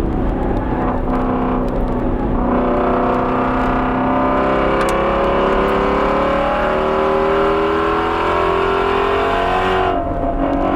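Ford Mustang Shelby GT350R's 5.2-litre flat-plane-crank V8 pulling hard under acceleration, its pitch climbing slowly for most of the stretch, then the throttle lifting near the end.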